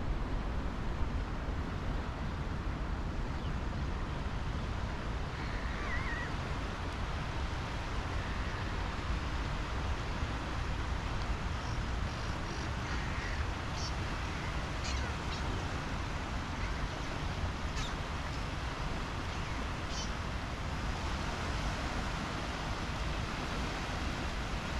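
Birds calling a few times over a steady low outdoor rumble: a short warbling call about six seconds in, then scattered short high calls through the middle.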